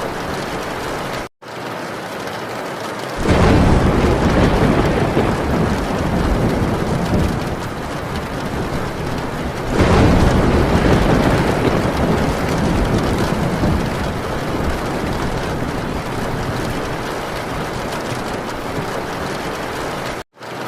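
Heavy rain drumming steadily on a metal tin roof, with two long rolls of thunder: the first starts about three seconds in, the second about ten seconds in. The sound drops out completely for a split second twice, near the start and near the end.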